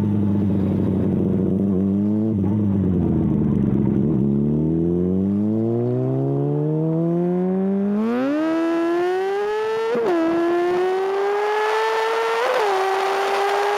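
Sport motorcycle engine accelerating hard, its pitch climbing steadily through the gears with several brief dips at the gear changes, and wind noise building as speed rises.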